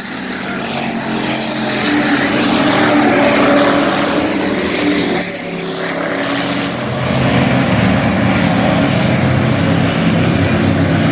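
Bomber-class dirt-track stock cars racing, several engines running loud at speed, their pitch rising and falling as the cars pass and come off the throttle.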